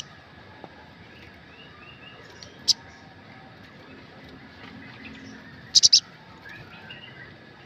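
Sunbird calls: a single sharp, high chirp a few seconds in, then a quick burst of three loud chirps around six seconds in, with faint softer twittering in between.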